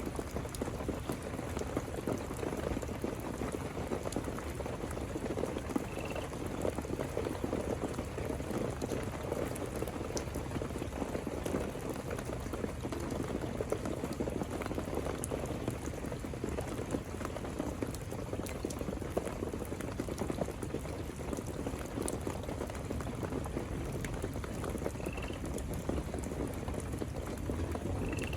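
Steady heavy rain, a dense, even patter of drops, with a few faint short chirps heard about six seconds in and twice near the end.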